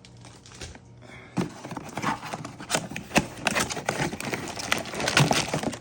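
Packaging being handled while a second battery pack is unboxed: plastic rustling and crinkling with irregular clicks and knocks, starting about a second and a half in.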